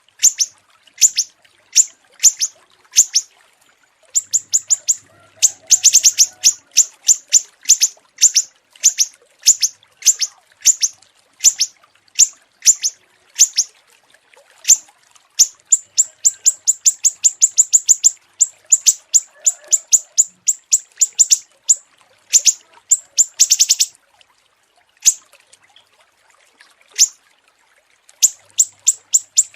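Small songbird chirping: sharp, high, clear notes, mostly two or three a second, breaking several times into fast runs of rapid chirps, with short pauses near the end.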